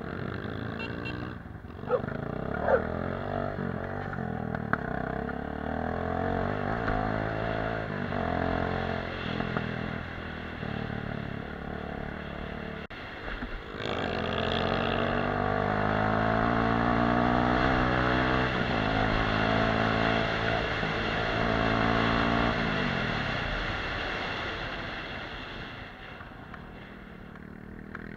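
Off-road motorcycle engine running under load, its pitch rising and falling as the throttle opens and closes through the gears. A couple of sharp knocks sound about two seconds in, and the sound breaks off briefly near the middle before coming back louder.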